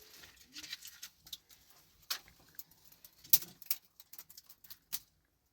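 Scattered light clicks and knocks at irregular intervals, the sharpest about two seconds and three seconds in.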